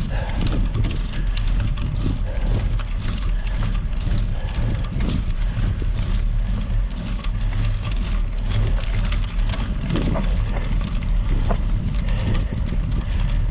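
Wind buffeting the microphone with a steady low rumble, over a dense crackle and rattle of bicycle tyres rolling on gravel.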